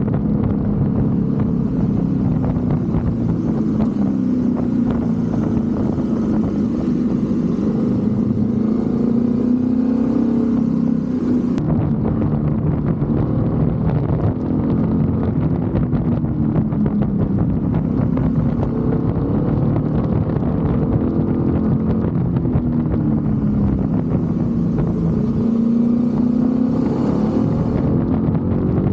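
BMW F 850 GS motorcycle's parallel-twin engine running under way, its pitch rising and falling several times as it speeds up and eases off.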